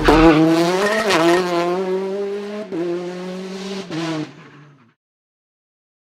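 Tuned car engine held at high, fairly steady revs, dipping briefly a few times, then fading out and stopping about five seconds in.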